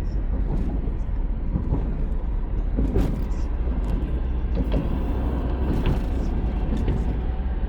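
Steady low vehicle rumble with a few scattered clicks and knocks.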